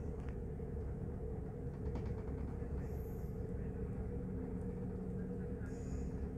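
Steady low rumble of a regional passenger train running along the track, heard from inside the carriage.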